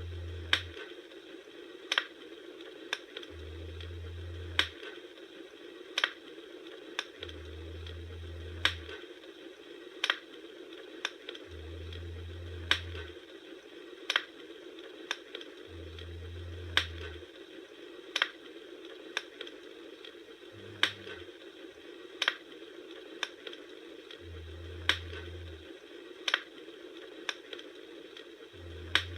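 Bonfire crackling: sharp wood pops and snaps about once a second, some much louder, over a steady hiss. A low hum about a second long comes back roughly every four seconds.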